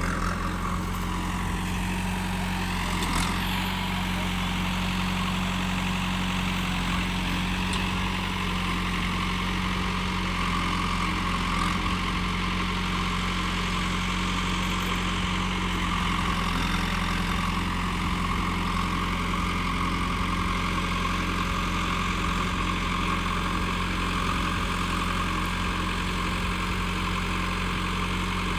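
Mahindra XP-series tractor's diesel engine running steadily at an even pitch.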